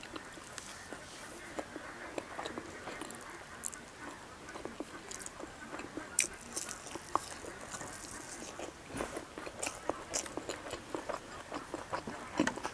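A person biting and chewing a piece of egg omelette with rice: irregular soft clicks and smacks of the mouth, a few louder ones around the middle and near the end.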